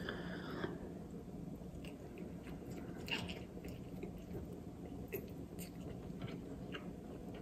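A person eating fettuccine pasta: quiet, close chewing with scattered small wet clicks and smacks.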